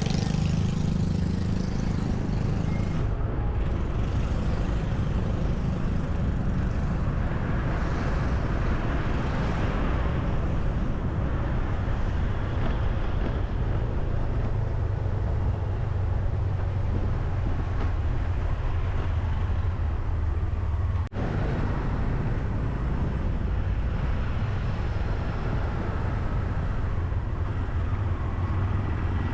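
Steady low rumble of road traffic, broken by a brief dropout about two-thirds of the way through.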